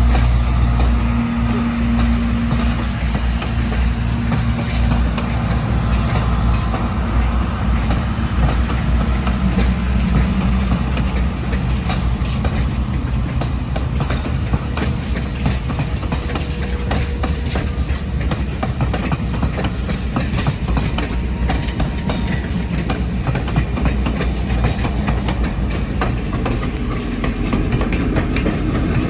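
Southern Railway FP-7 diesel locomotive, its EMD 567 two-stroke V16 engine running steadily, with a train's wheels clicking over the rail joints through most of the stretch.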